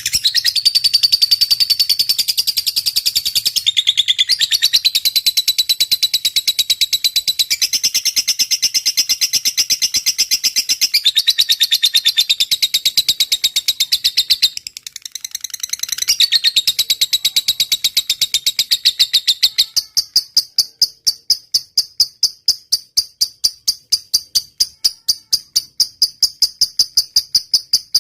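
Lovebird singing a long, fast, high-pitched chattering trill ('ngetik'), in phrases that shift pitch every few seconds. In the last third the song turns into an even run of separate chirps, about five a second.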